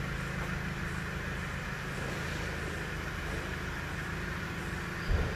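Mahindra XUV500's engine idling with a steady low hum, and a single thump near the end.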